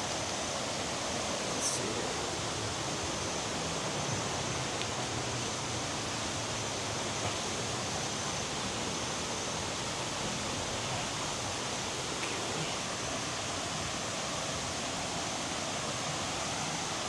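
Steady rush of water from a jungle waterfall, an even, unbroken roar of falling and flowing water.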